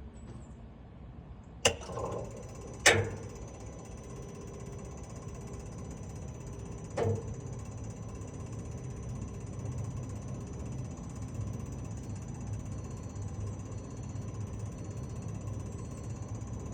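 Sany 155 excavator being readied for a cold start: three sharp clicks or knocks in the first seven seconds, then a steady low hum with a faint high whine from the machine's electrics switched on before cranking.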